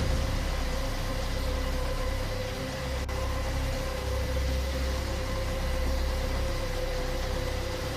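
Steady drone of a large transport aircraft's engines, a low rumble with a constant hum.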